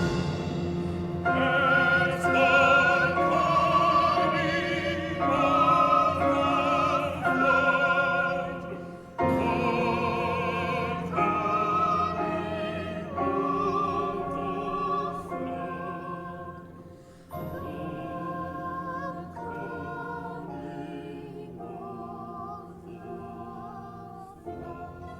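Classical singing in long held notes with vibrato, over orchestral accompaniment, in phrases with short breaks about a third and two thirds of the way through.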